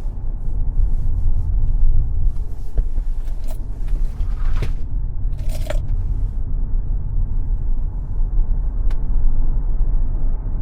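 Tesla Model X electric car driving at speed on a racetrack: a steady low rumble of tyre and road noise with no engine note. A few brief knocks and short squeaks come around the middle.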